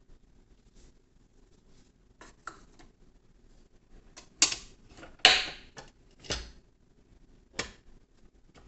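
Hard clacks and knocks of objects being handled: a few light ticks, then two loud clacks about four and a half and five seconds in, the second trailing off briefly, and two weaker knocks after.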